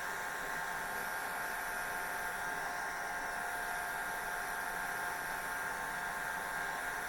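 Electric hair dryer running steadily: a constant rush of air with a steady motor whine in it, never changing.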